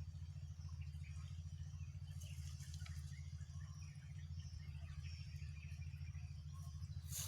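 Outdoor lakeside ambience: small birds chirping and insects calling, scattered and faint, over a steady low hum, with a short rustle or click near the end.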